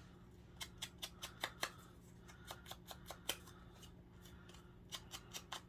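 Paper being handled and worked in a paper-crafting session: short crisp clicks and snips in three quick runs, over a faint steady low hum.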